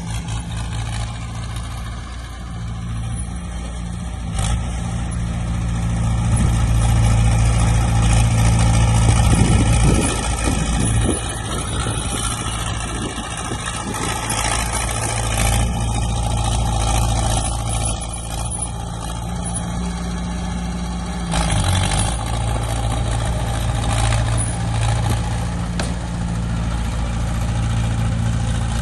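Heavy diesel engines of earthmoving machinery (dump trucks and a bulldozer) running steadily, growing louder over the first third and easing back after.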